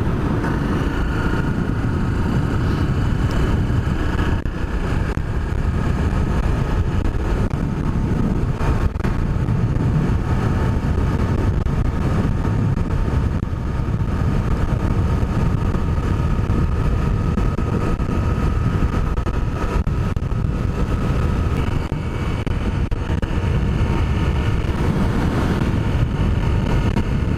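Honda CRF250L's single-cylinder four-stroke engine running steadily under way, its pitch drifting up and down a little with the throttle.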